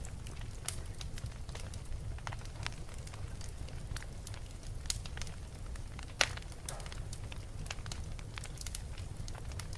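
Wood fire in a fireplace crackling and popping at irregular moments over a steady low rumble of the flames, with one sharper pop about six seconds in.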